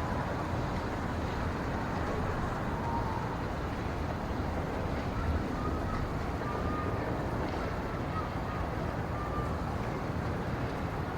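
Steady wind rushing through a pine forest, a constant low-heavy noise, with a few faint short whistling notes scattered through it.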